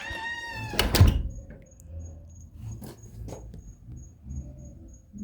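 A door creaks and shuts with a loud thud about a second in. Then a cricket chirps in a steady, evenly spaced series of high chirps, with a few faint clicks.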